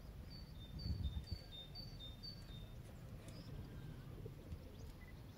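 A small songbird singing a high two-note phrase, the first note higher than the second, repeated five times in quick succession, faint, over a low outdoor rumble.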